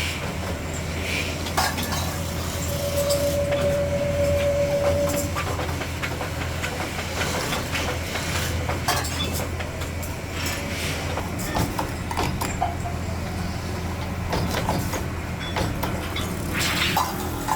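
Workshop machinery humming steadily, with scattered metallic clinks and knocks from metal kettle parts being handled and worked. A steady whine rises out of the hum for about three seconds near the start.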